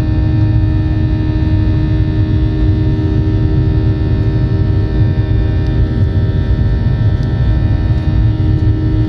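Steady cabin noise of a Boeing 737-800 climbing just after takeoff: the deep drone of its CFM56-7B turbofan engines with a hum and several held tones, unchanging throughout.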